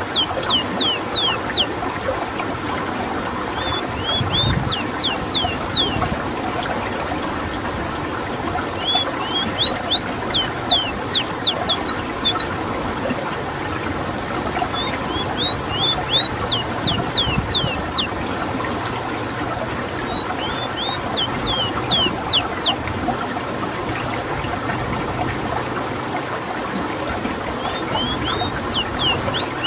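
Ruddy-breasted seedeater (rowti) singing its rolling song: bursts of quick, downslurred whistled notes, each phrase lasting a second or two and repeated about every five seconds, over a steady background hiss.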